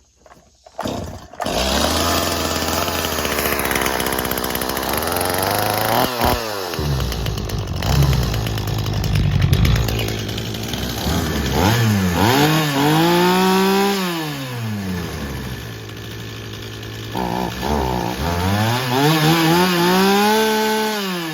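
Stihl 026 two-stroke chainsaw starting about a second and a half in, then running, revved up and back down to idle twice in the latter half.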